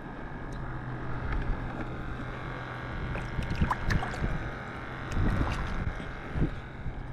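A steady low engine hum, with wind on the microphone and a few faint ticks.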